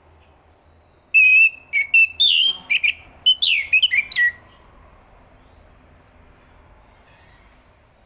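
Chestnut-capped thrush singing one phrase of quick, varied whistled notes. It starts about a second in and lasts about three seconds.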